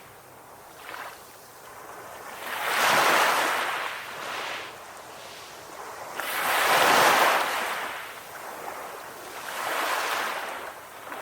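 Ocean waves breaking on a shore: three surges of surf, about one every three to four seconds, each swelling and fading back to a softer wash, the middle one the loudest.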